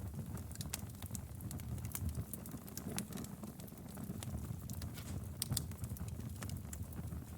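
Wood fire crackling in a fireplace: frequent sharp snaps and pops over a steady low rumble of the flames.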